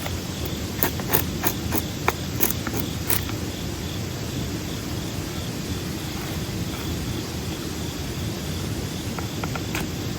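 Wood campfire crackling: a quick run of sharp pops in the first three seconds and a few more near the end, over a steady low rush, with a faint high insect trill behind.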